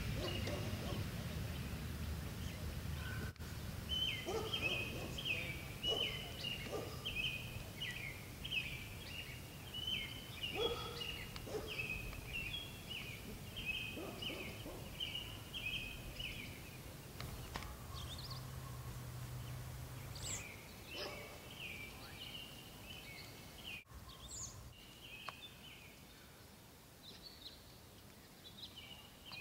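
A songbird singing, long runs of short, high chirps repeated about twice a second with a brief pause midway, over a low steady rumble.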